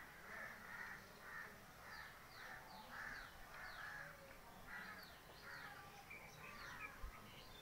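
Faint bird calls: a run of harsh, repeated calls about two a second, with short higher chirps over them.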